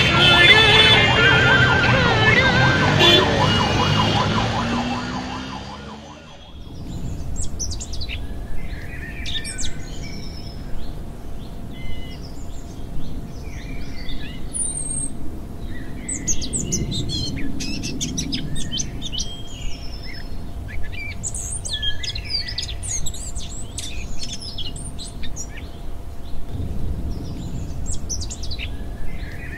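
A loud, dense mix of pitched sounds fades out over the first six seconds. After it, birds chirp and call again and again, in short bursts over a faint steady hum.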